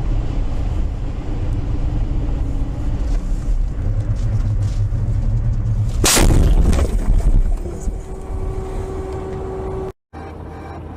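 Car cabin and road noise from a dashcam, then a loud crash about six seconds in as vehicles collide. A steady tone follows for about two seconds before the recording cuts off.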